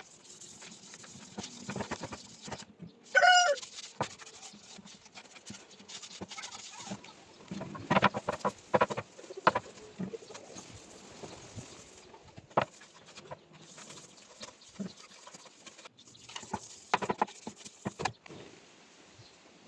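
Scattered knocks, taps and light scraping from hand work, with one short, loud animal call about three seconds in.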